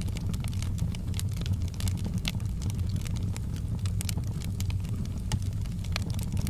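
Wood fire burning in a fireplace: many small irregular crackles and pops over a steady low rumble.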